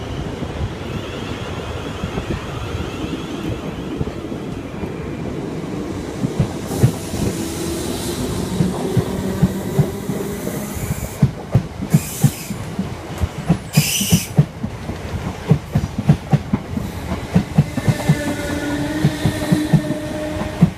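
Electric passenger train running past, its wheels beating a regular clickety-clack over the rail joints through the second half, with a couple of brief high-pitched bursts midway.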